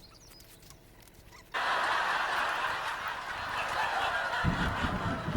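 Faint outdoor ambience with a bird chirp, then an abrupt cut about one and a half seconds in to a loud, steady hiss of heavy rain. Low thunder starts rumbling under it near the end.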